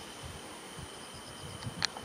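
Insects droning steadily, with faint rapid chirping, over a soft low rumble. A single sharp click comes near the end.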